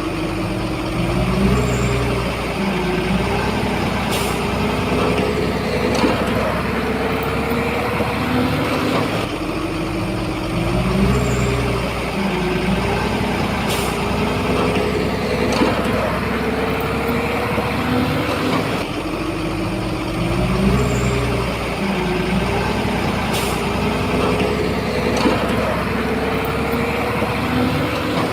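A Shantui bulldozer's diesel engine works under load, its pitch rising and falling in a cycle that repeats about every nine seconds, with a few sharp knocks.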